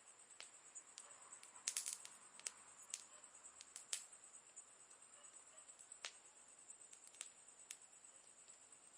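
Wood campfire crackling: irregular sharp pops and snaps, with a quick cluster of them about two seconds in, over a faint steady high hiss.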